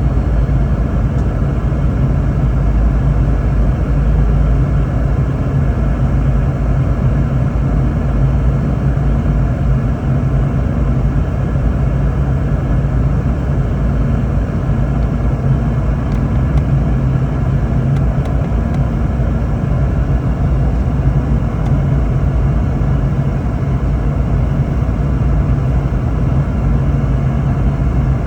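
Steady cabin drone inside a Boeing 717-200 in flight: airflow noise and the hum of its rear-mounted Rolls-Royce BR715 turbofans, a loud, even low rumble.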